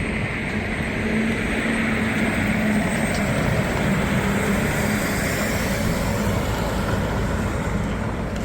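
A motor vehicle passing along a wet street: a steady low hum with tyre hiss that swells and then fades over several seconds.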